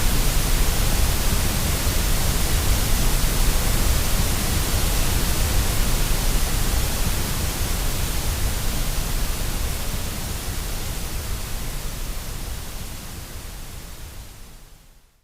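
Steady white noise for baby sleep: an even hiss with a strong deep rumble underneath, fading out gradually over the last several seconds to silence.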